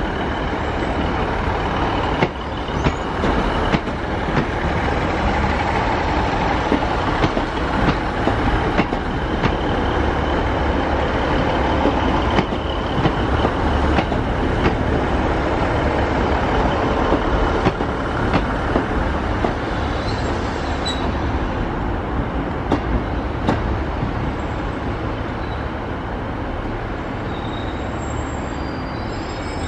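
Merseyrail Class 508 electric multiple unit running slowly over pointwork: a steady rumble of wheels and running gear with frequent sharp clicks as the wheels cross rail joints and points, easing off a little near the end.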